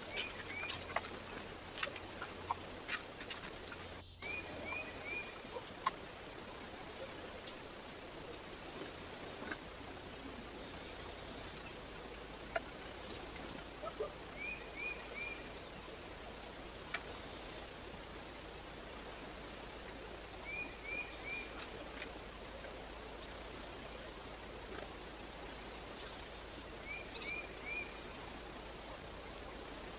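A small bird giving short calls of three quick high notes, four times over, against the steady hiss of a trail camera's microphone, with scattered light clicks and taps.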